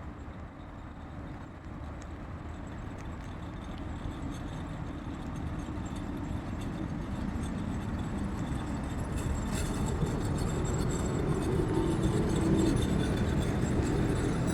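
A train approaching along the line, its low rumble growing steadily louder.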